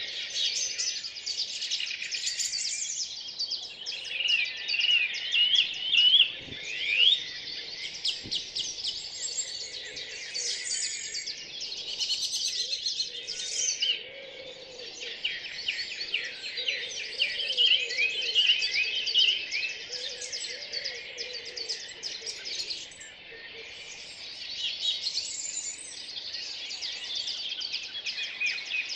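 Dawn chorus of many songbirds singing at once: a dense, continuous overlap of chirps, trills and warbles. Through the middle a lower, wavering call sounds underneath.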